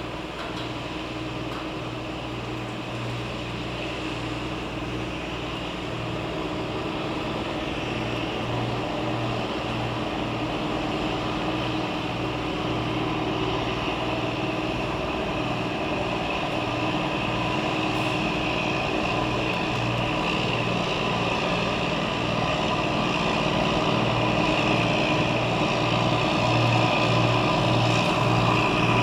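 Pusher tug's diesel engine pushing a barge, a steady hum that grows gradually louder as the vessel approaches.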